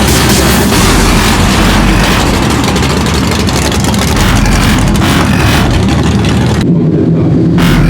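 A custom lowered truck's engine and exhaust running loudly as it drives by. The sound changes abruptly near the end.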